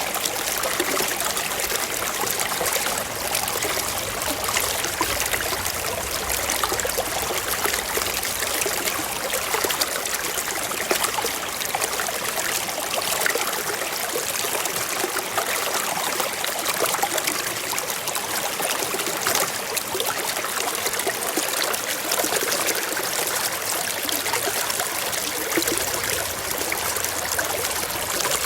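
Forest stream flowing over rocks, a steady trickling and babbling rush with many small splashes.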